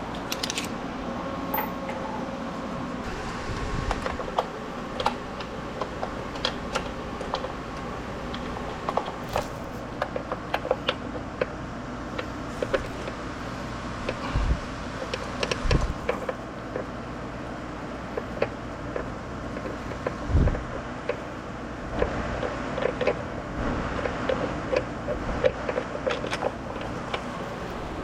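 Irregular small metallic clicks and taps of hand tools and parts being handled, with a few dull thumps.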